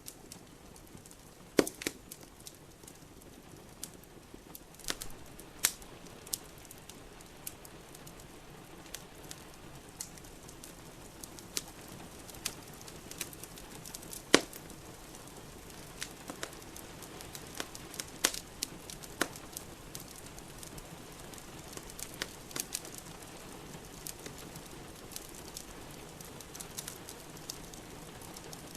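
Wood fire crackling in a fireplace, with irregular sharp pops and snaps, two of them louder, near the start and about halfway, over a steady hiss of rain.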